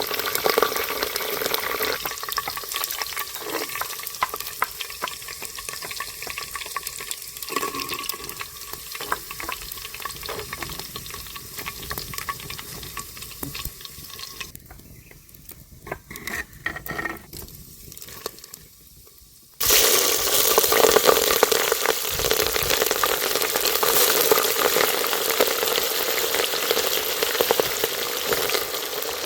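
Food sizzling as it fries in hot oil, with stirring. The sizzle drops away for a few seconds, then comes back suddenly and louder about twenty seconds in.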